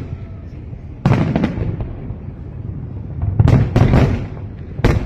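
Aerial fireworks shells bursting: a loud boom about a second in, a quick run of three booms around three and a half seconds, and another sharp one near the end, each trailing off in a rumbling echo.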